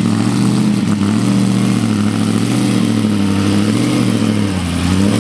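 A car engine running steadily, its pitch sagging slightly near the end.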